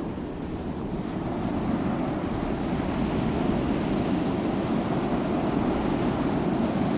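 Sea waves washing on the shore, a steady rushing surf that dips slightly at the start and swells back within a couple of seconds.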